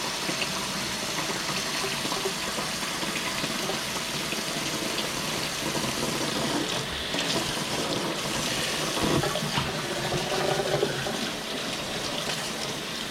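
Kitchen tap running steadily into a sink, with a few irregular handling sounds about nine to eleven seconds in.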